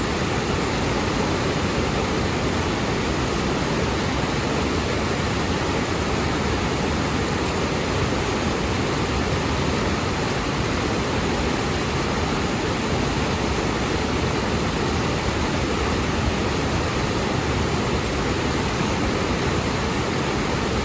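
Waterfall: a steady, unbroken rush of falling water, heaviest in the low register, with no change throughout.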